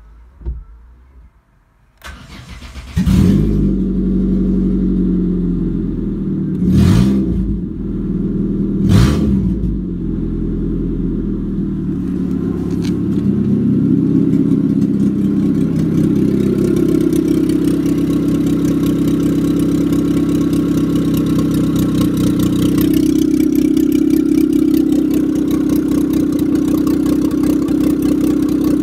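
Renault Megane's 1.6-litre K7M 720 eight-valve petrol four-cylinder cranked by the starter and catching about three seconds in. It is revved briefly twice, a couple of seconds apart, then left idling steadily.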